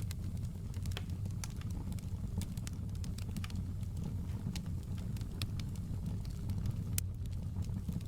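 Wood fire crackling in a fireplace: irregular sharp pops and snaps over a steady low roar, with one louder pop about seven seconds in.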